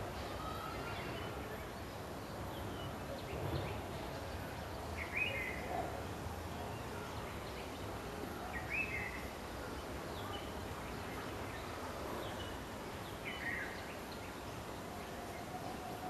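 Small bird chirping: short single notes every few seconds over a steady background noise.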